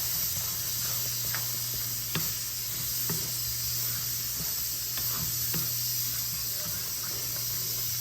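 A spiced curry mixture sizzling in a pan on high heat: a steady hiss, with a few light clicks about two, three and five seconds in.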